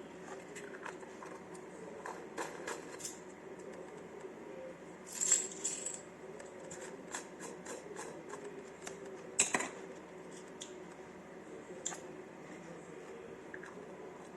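A 3D-printed plastic pill bottle being handled: scattered light clicks and taps, with two brief, louder clattering rattles about five seconds and nine and a half seconds in.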